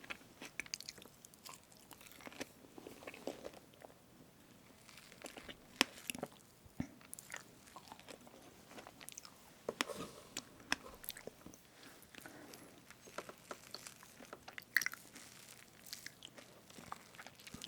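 Close-miked eating of strawberry fresh-cream cake: soft chewing with many small wet mouth clicks, scattered and irregular.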